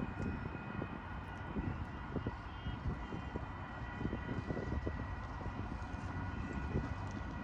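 Union Pacific autorack freight train running, heard as a steady high-pitched whine of several held tones over a low rumble, with irregular low thumps.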